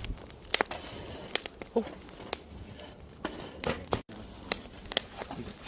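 Wood fire crackling, with sharp irregular pops over a soft steady hiss.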